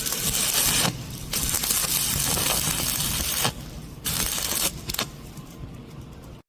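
Stick (shielded metal arc) welding on pipe: the arc crackles and hisses in stretches of a second or two, with brief breaks between them, and goes quieter near the end.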